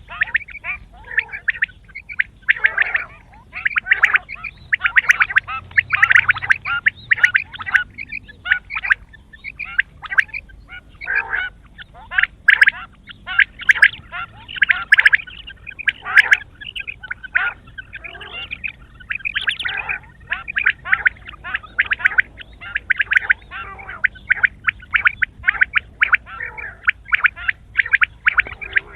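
Quail calling without pause, a rapid chatter of short, harsh notes in dense runs.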